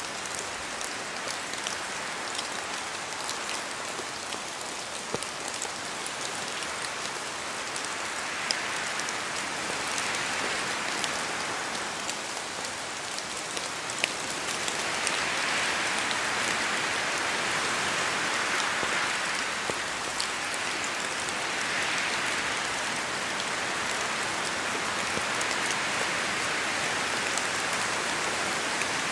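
Steady rain in a forest, with scattered sharp drops falling from the trees and wind gusting through, so the hiss swells and eases several times.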